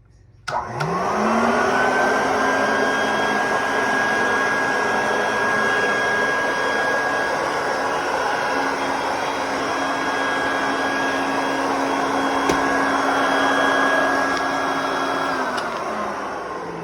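Mid-1950s GE Roll-Easy vacuum cleaner switched on with a click, its motor whining up to speed within about a second and then running steadily with a loud noise of air. Near the end it is switched off and the motor winds down, its whine falling in pitch.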